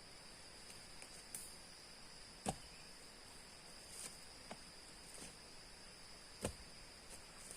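Wood being chopped: two sharp strokes about four seconds apart, with a few lighter knocks between them. A steady high-pitched insect drone runs underneath.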